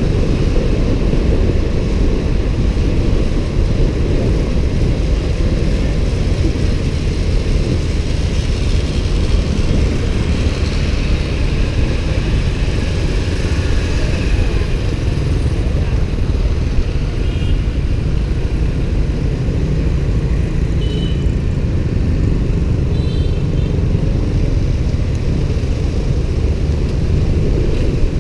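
Motorbike riding through city traffic: a steady, loud low rumble of engine and road noise.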